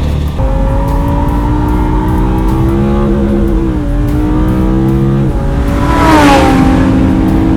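Race car engine under hard acceleration on a circuit, its pitch climbing steadily and dropping at gear changes. About six seconds in comes a louder rush with a falling pitch.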